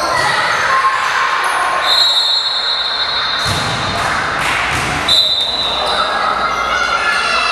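Basketball game noise in a gym: a ball bouncing on the court amid the steady hubbub of the hall, with two steady high-pitched squeals, a long one about two seconds in and a shorter one about five seconds in.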